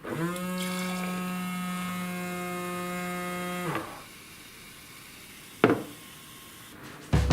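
Small 6 V DC air pump motor running with a steady whine for nearly four seconds, spinning up at the start and winding down at the end. A single sharp click follows, and music starts just before the end.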